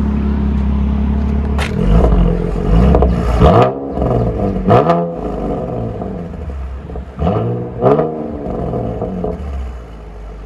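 Chevy Camaro 3.6L V6 with a Borla ATAK axle-back exhaust idling, then revved in several quick blips that rise and fall back to idle, before settling to a quieter idle near the end.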